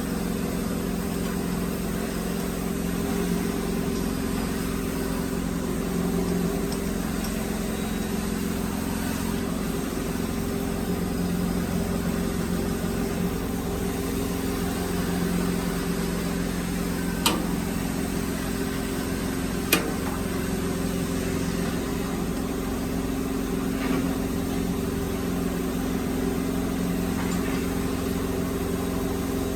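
Workshop machine's electric motor running steadily with an even hum, two sharp metallic clicks about two and a half seconds apart partway through.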